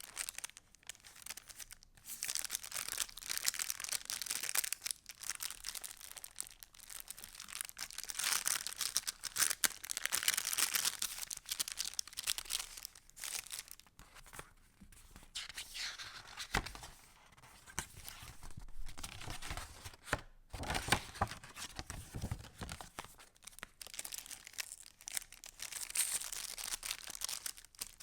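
Paper pages of a handmade junk journal being handled and turned, with continuous rustling and crinkling. A few duller handling thuds come in the middle.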